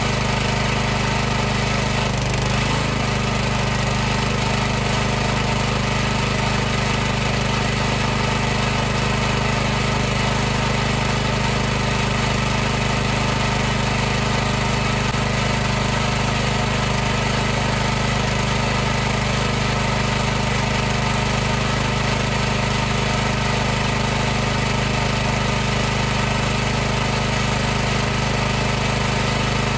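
High-pressure washer running steadily: its pump and motor make a constant hum with a noisy edge, unchanged in pitch and level.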